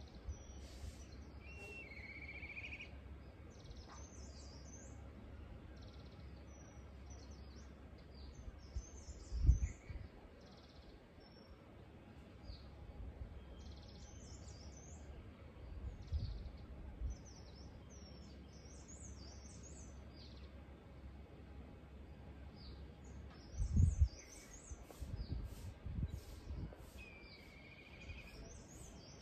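Small songbirds chirping and calling over and over against a steady outdoor hush, with a longer lower call near the start and again near the end. A few brief low rumbles come through about a third of the way in, about halfway, and again later on.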